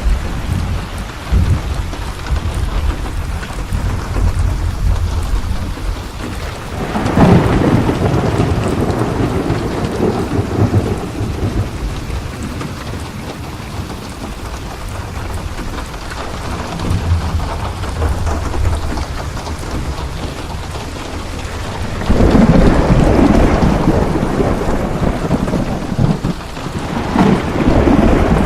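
Steady rain with rolling thunder. The thunder swells loudly twice, about seven seconds in and again from about twenty-two seconds in, with another roll building near the end.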